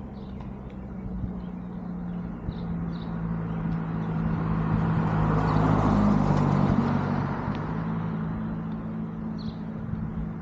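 A motor vehicle passes, its sound swelling and fading in the middle of the stretch over a steady low hum, with a few short bird chirps.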